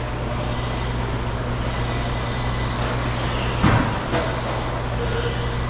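Electric RC stadium trucks running on the track: motors whining up and down over tyre and track noise, with a single thump a little past halfway.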